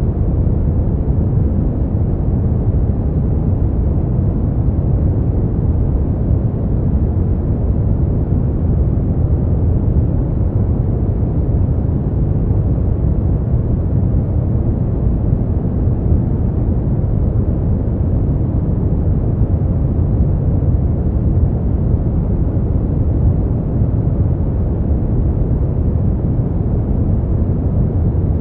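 Continuous steady noise for sleep, a deep, even rush weighted toward low pitches with little hiss at the top, unchanging throughout.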